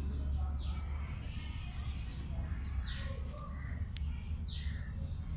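A bird calling: a short high call that slides down in pitch, three times, with faint higher chirps between, over a steady low hum.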